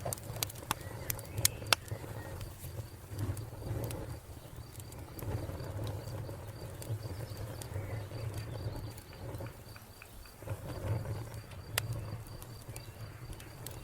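Wood fire crackling, with several sharp pops in the first two seconds and a couple more near the end, over a steady low rumble. A cricket chirps in a fast, even pulse throughout, and a bird calls softly now and then.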